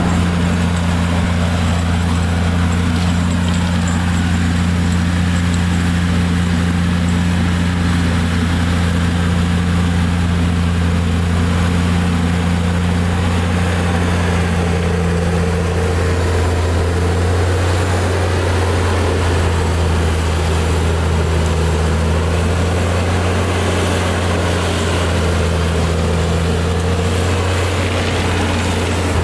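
Claas Xerion 3800 tractor's engine running steadily with a deep, even drone while driving an AHWI forestry mulcher. The pitch of the drone shifts slightly a little past the midpoint.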